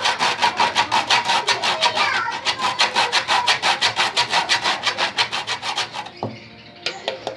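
Quick, even rasping strokes, about six to seven a second, typical of dry bread being grated by hand for bird rusk; the strokes stop about six seconds in, followed by a few light clicks.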